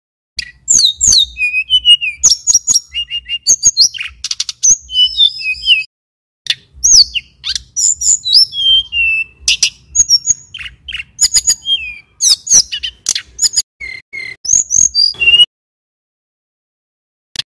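Male tledekan gunung (sulingan gunung) singing a fast, busy song of sharp chirps, trills and falling whistles, with a short break about six seconds in; the song stops near the end.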